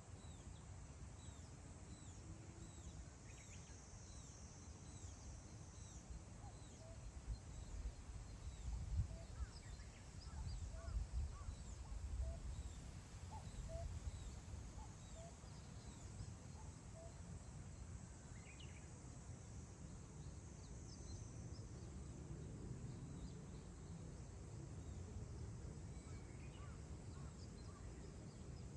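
Wind buffeting the microphone in low gusts, strongest around the middle, with wild birds calling in many short, high chirps throughout.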